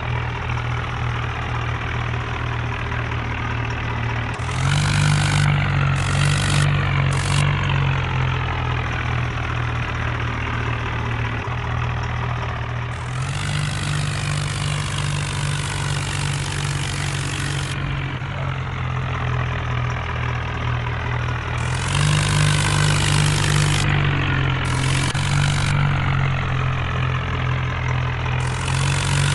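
Tractor diesel engine running steadily, its revs rising in several stretches while a hiss joins in, then dropping back each time.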